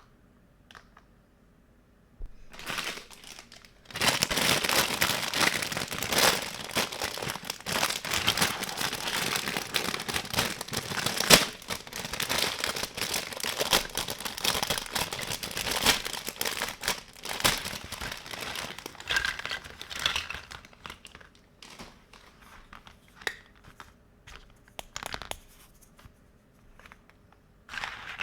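Packaging being handled and torn open, crinkling and tearing continuously for most of the stretch, after a brief first rustle a couple of seconds in, and dying down to scattered crinkles near the end.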